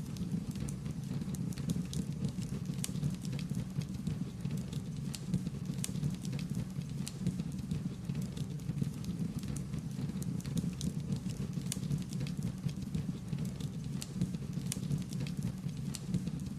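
Wood fire burning and crackling, with irregular sharp pops and snaps over a steady low rumble of the flames.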